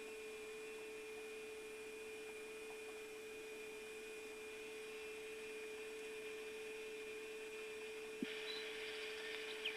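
Faint steady electrical hum: a constant tone over soft hiss. About eight seconds in there is a click, and the hiss gets a little louder with a few faint chirps.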